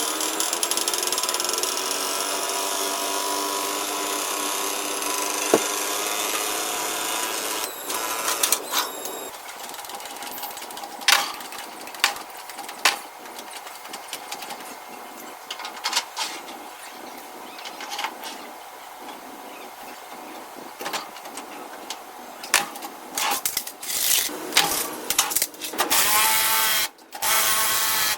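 A power tool running steadily for about eight seconds, then scattered sharp knocks and clicks of hand work on metal, and a power tool whining again for a few seconds near the end.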